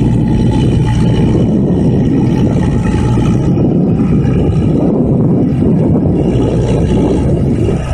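Heavy machinery engine running steadily and loudly, with a dense rumble, and a brief dip in level near the end.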